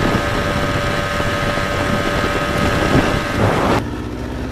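Motorboat engine running under way, with wind buffeting the microphone; a little before the end the sound changes abruptly to a steadier, quieter engine hum.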